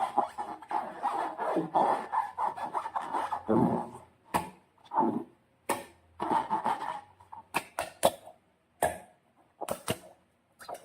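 Slime and rubber balloons being handled and squeezed: irregular squishing and rubbing, with several sharp clicks in the second half.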